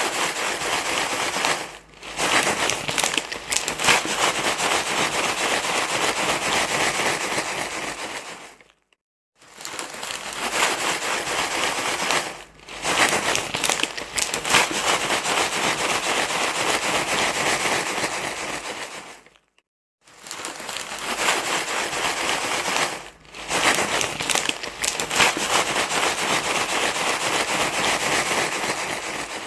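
Continuous crinkly rustling, crumpled and shaken, in stretches of a few seconds broken by short silent gaps. It is a looped recording that repeats about every ten seconds, played loud to soothe a crying baby.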